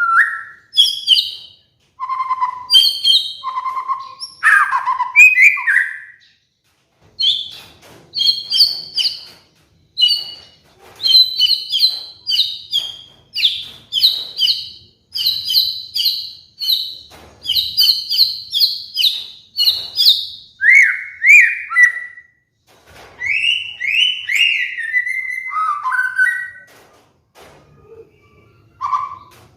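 White-rumped shama (murai batu) singing a long, varied song: rapid runs of high chattering notes broken by lower, louder whistled phrases that slide in pitch, with a short pause near the end.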